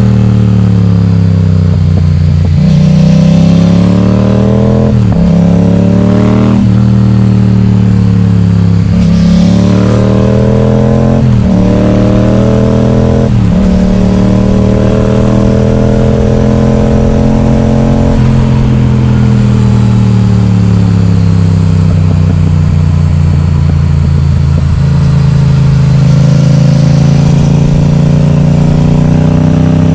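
Yamaha XSR700's 689 cc parallel-twin running loud through an Akrapovič exhaust with its baffle removed. The engine note climbs and drops sharply several times as it works up through the gears, then holds steady and falls away as the rider eases off.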